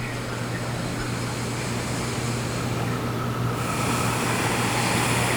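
Steady background hiss with a low hum underneath, slowly growing louder and turning brighter, with more high hiss, about three and a half seconds in.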